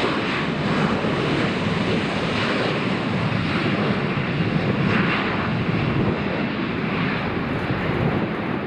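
Airliner engines, a loud steady rushing noise from a plane at close range.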